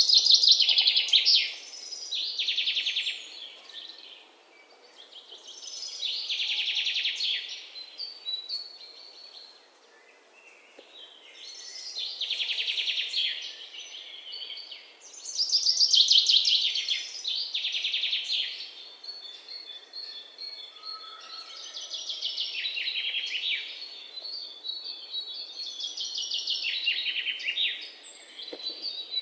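Songbirds singing: bursts of fast, trilled high chirps a second or two long, repeated every few seconds, with thin, steady high notes between them and a short lull about ten seconds in.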